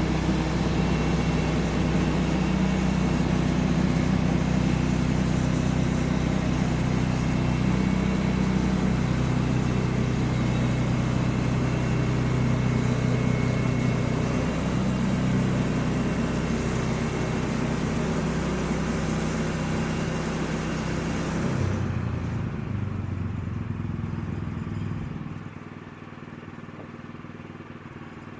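Sawmill engine running steadily while the mill saws through a log, with a steady high hiss over the engine. About three-quarters of the way in the hiss cuts off and the engine changes pitch, then drops to a much quieter idle.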